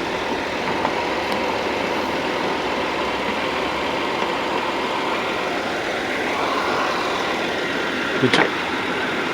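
Car engine idling steadily with the AC running, giving an even, continuous rush. A single sharp click about eight seconds in.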